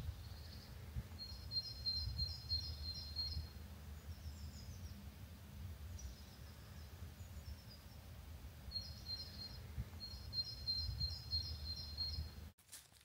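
A songbird singing in short runs of quick, high chirps, three times, over a steady low rumble. The sound cuts off abruptly near the end.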